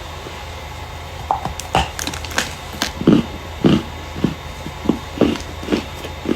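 Starch being crushed close to the microphone: after a quiet first second or so, a run of crisp crunches, about two a second, over a steady low hum.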